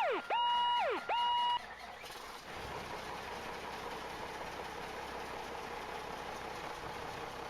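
A fire truck's electronic siren whooping up and down in quick repeating cycles, cutting off about a second and a half in. After that, a steady engine and vehicle rumble.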